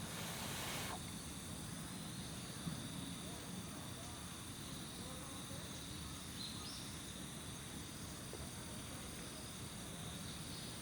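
Insects chirping steadily in a high, even drone, with a brief hiss in the first second.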